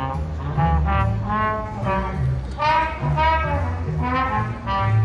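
A live band playing outdoors: a sequence of held melody notes over a steady bass line.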